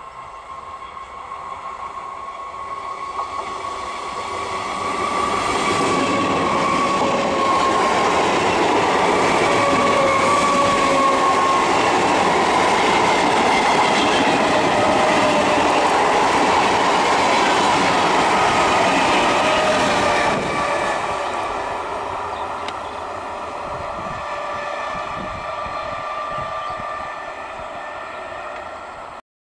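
Electric multiple unit (EMU) local train running past at speed: wheels clattering on the rails, with a steady whining tone over the rumble. It grows louder over the first few seconds and stays loud for about fifteen seconds, drops sharply about twenty seconds in, and cuts off abruptly near the end.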